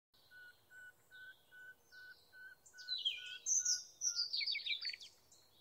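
Songbirds: a faint, steady series of short, even whistles at about two a second, joined about three seconds in by louder twittering song of quick, falling chirps that stops shortly before the end.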